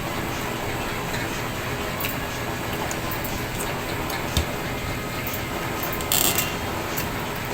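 Eating sounds from someone eating raw shrimp: a few sharp mouth or shell clicks and a short crunchy, hissy noise about six seconds in, over a steady background hum.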